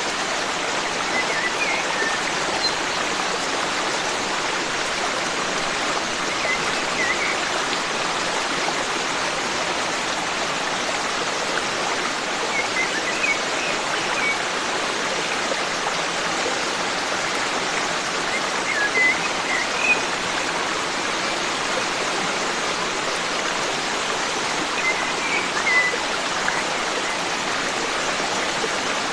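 Forest stream running steadily, with a few short bird chirps coming back about every six seconds over the rush of water.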